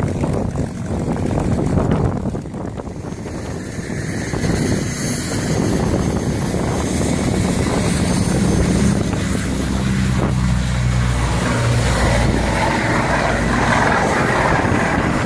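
Propeller aircraft engine running close by, a loud steady drone whose low hum grows stronger midway.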